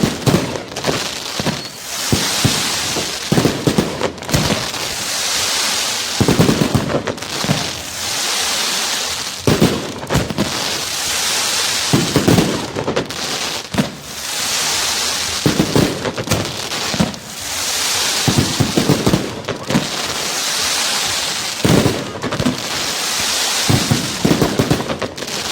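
Sea waves breaking and washing on the shore, a surge of hissing water every few seconds alternating with a crackling clatter.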